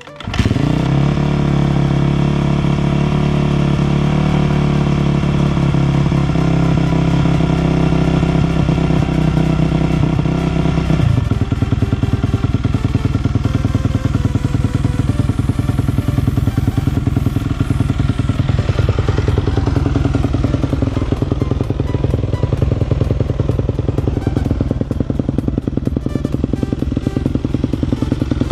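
2007 Yamaha YZ250F's 250 cc four-stroke single-cylinder engine catching on a cold start and idling. It runs at a fast, heavy idle, then settles to a lower idle about eleven seconds in.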